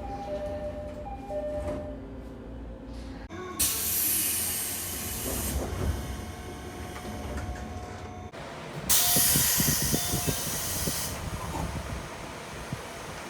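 A two-note door chime repeats in the first couple of seconds. Then, twice, a train's pneumatic door engine lets out a loud hiss of air, about two seconds each, as the sliding doors close; knocks come through the second hiss.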